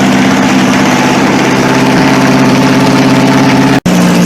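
Modified garden tractor engine idling steadily. Near the end it cuts out for an instant and comes back at a slightly different pitch.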